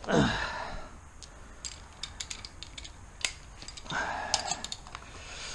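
Light, irregular clicks and clinks of small metal parts and tools being handled on a workbench. A short falling vocal grunt comes at the very start.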